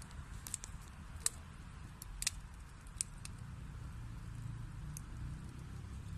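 Wood fire burning in a fireplace: a steady low rumble and hiss with scattered sharp crackles and pops, the loudest a little over one and two seconds in.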